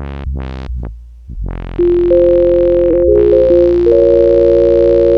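Layered synthesizer patch played on an MPE keyboard, with finger pressure controlling the filter: a few short notes whose brightness opens and closes, then from about two seconds in a held chord over a deep bass with clear sustained tones on top.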